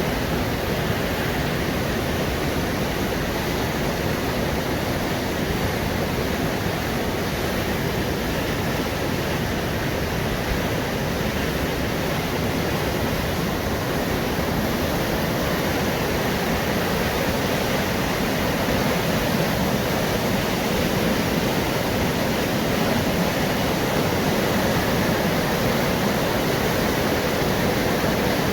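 Rushing river water at a mill, a steady even rush of flowing water that grows slightly louder in the last third.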